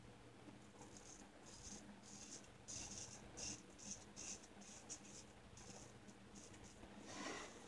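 Faint scraping of a Shear Mattaki shavette with a Gillette Wilkinson Sword blade cutting through lathered stubble: a run of short, irregular strokes.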